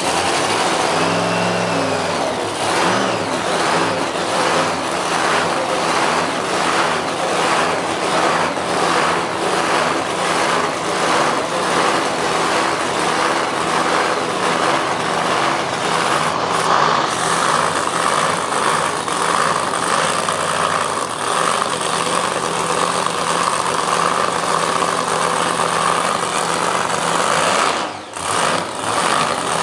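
Vega funny car's V8 drag-racing engine running loudly just after being fired, idling with a slightly pulsing beat. Its loudness drops briefly near the end.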